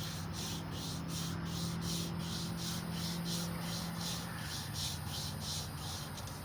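Strip of emery cloth drawn back and forth around a crankshaft journal of a small-block Chevy 350, a rhythmic scratchy rubbing at about three strokes a second that stops at the end, over a steady low hum.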